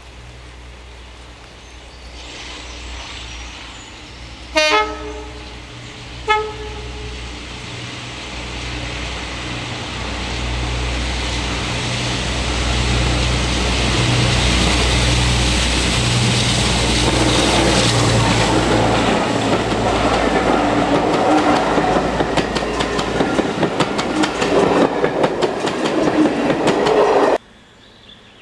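Heritage diesel locomotive sounding two short horn blasts, then its engine working as the train draws near and passes, the noise building to a peak with wheels clicking over the rail joints. The sound cuts off abruptly near the end.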